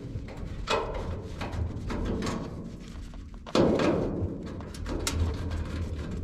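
Irregular knocks, clicks and scraping of hands and tools on the sheet-metal casing of an old gas furnace while parts are worked loose, with a heavier thud about three and a half seconds in.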